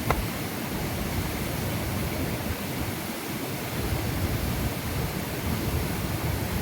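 Waterfall rushing, a steady, even roar of falling water, with one short click right at the start.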